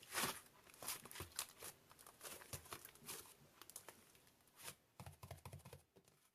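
Faint, irregular taps and rustles, with a quick run of small knocks near the end.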